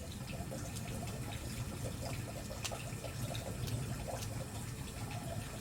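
Wood bonfire burning, the firewood crackling with scattered sharp pops over a steady low rumble.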